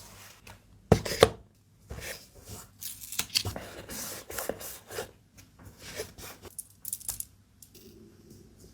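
Hands handling packaging materials: two sharp taps about a second in, then a run of crisp rustling, scraping and tearing sounds with small clicks, fading to faint rustling near the end.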